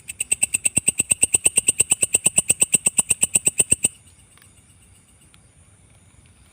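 Belalang kecek katydid calling: a fast, even train of ticks, about ten a second, for about four seconds, then stopping suddenly. A steady high insect drone runs underneath.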